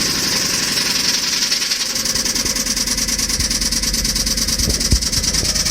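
The supercharged V8 of a 2009 Jaguar XF idling just after starting, with a rapid, even knocking all the way through and one louder thump near the end. It is a badly worn engine with metal glitter in its old oil, now running on fresh oil with an additive meant to quiet the noise.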